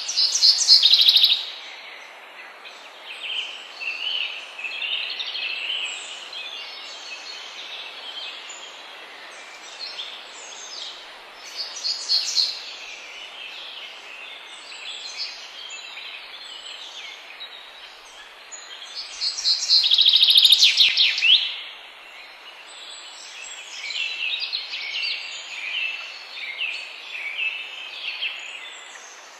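Songbirds singing over a steady background hiss. Several phrases follow one another, and the loudest are fast trilled series at the very start and again about twenty seconds in.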